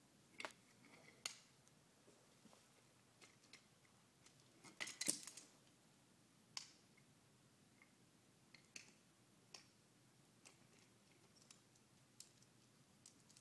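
Scattered light clicks and clacks of toy train pieces being handled, a few at a time, with a short cluster about five seconds in.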